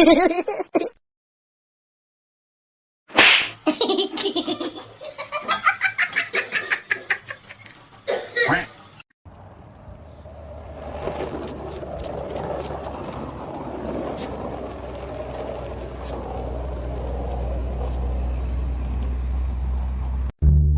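A person laughing in quick repeated bursts for several seconds, followed by a steady noisy background with a low hum and a few faint clicks.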